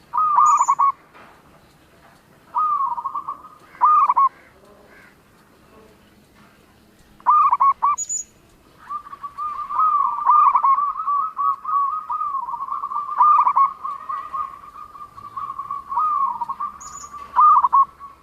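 Zebra dove (perkutut) cooing: several short bursts of rolling coos, then a long unbroken run of rapid coos from about halfway through to the end. Three brief high chirps sound over it.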